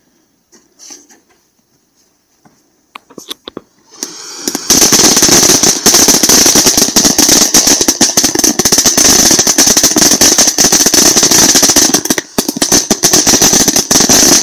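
Crackling firework fountain (Crackling Snow) going off: after a few quiet seconds it catches with a short rising hiss, then runs with dense, rapid crackling over a steady high hiss for about ten seconds.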